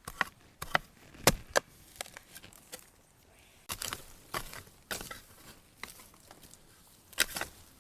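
Dry bamboo leaves and twigs crackling and snapping in scattered sharp cracks, the loudest about a second in, with light rustling between.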